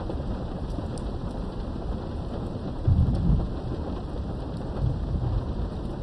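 Steady heavy rain with a low roll of thunder about three seconds in and a weaker rumble near the end.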